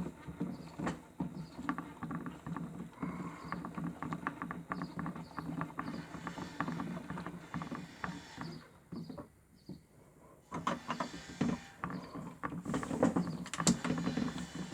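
Toy Miele W1 washing machine running a wash cycle: a small motor hum under water sloshing and clicking as the drum turns. The drum stops for about a second and a half about nine seconds in, then starts again.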